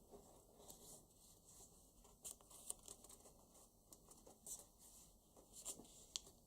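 Faint paper rustling and crackling with a few sharper crinkles: a paper banknote being handled, folded and creased.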